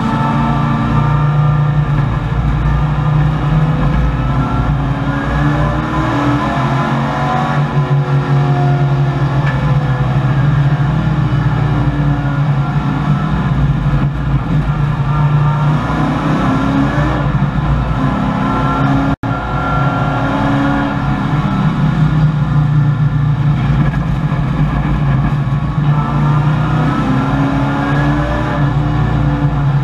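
Race-prepared 1984 Chevrolet Camaro V8 engine heard from inside the cabin under hard racing use, its pitch repeatedly rising as it accelerates and dropping back at gear changes and braking. The sound cuts out for a split second about two-thirds of the way through.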